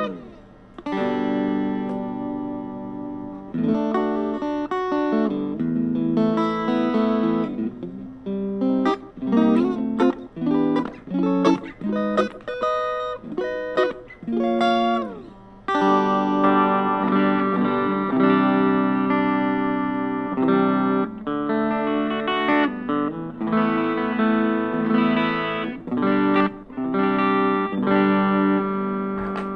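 Fusion Stratocaster-style electric guitar being played as a sound demo: short picked phrases with gaps, a few sliding or bent notes about halfway, then longer ringing notes and chords through the second half.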